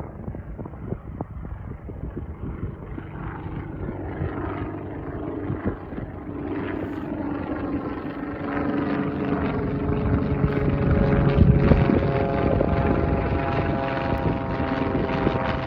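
Aircraft engines running and growing steadily louder. A steady hum of several tones comes in about halfway through.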